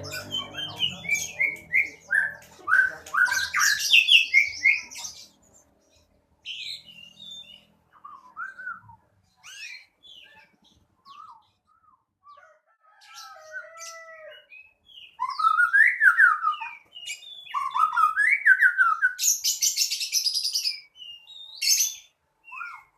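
Songbird singing: rapid varied phrases of whistled and slurred notes with fast trills, in two loud spells, the first in the first few seconds and the second in the last third, with scattered quieter notes in between.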